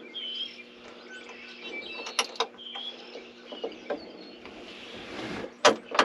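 Sharp metal clicks and clinks from bolts and a wrench being handled, in a couple of pairs, over a steady low hum. A bird chirps briefly a couple of times.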